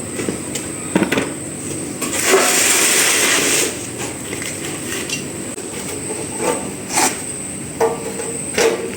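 Workshop handling noises: scattered clinks and knocks of tools or metal parts over a steady background noise, with a louder hiss lasting over a second about two seconds in.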